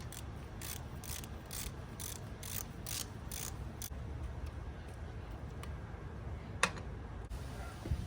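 Ratchet clicking in an even run of about ten clicks, roughly three a second, stopping about four seconds in, then one sharp click near the end.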